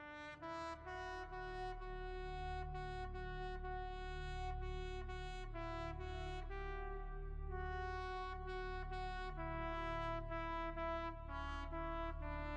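Music: a trumpet playing a slow melody of held notes over a low sustained accompaniment.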